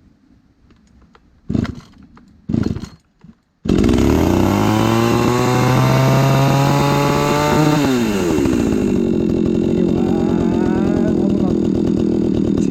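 Older-model two-stroke chainsaw without a primer bulb being pull-started: two or three short cord pulls, then the engine catches about four seconds in and runs fast with its pitch climbing. Just after the midpoint the revs fall sharply and it settles to a steady lower-speed idle.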